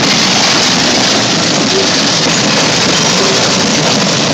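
London Underground A60 stock train passing close by, its wheels running on the rails in a loud, steady rolling noise.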